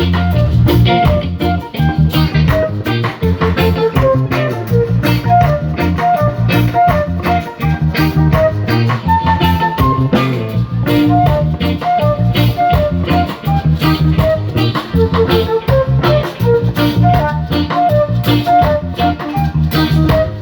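Live band playing an instrumental introduction: electric guitar melody over bass and drum kit with a steady beat.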